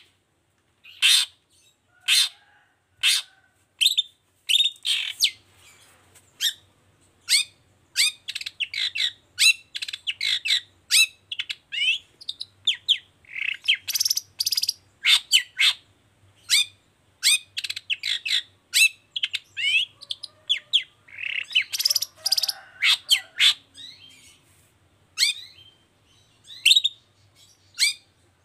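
Long-tailed shrike (cendet) singing: a fast, irregular string of short, sharp chirps and downward-sweeping whistled notes, coming in dense runs with brief gaps.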